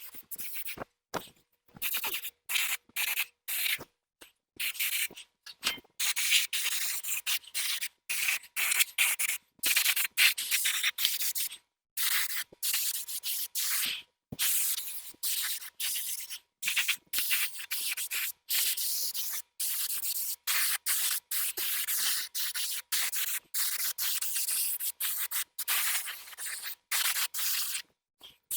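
Paint spray gun hissing in many short and longer bursts as the trigger is pulled and released, laying on coats of paint.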